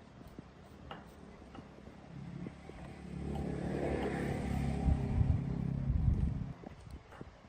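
Motorcycle engine running, growing louder from about two seconds in, then stopping abruptly about a second before the end.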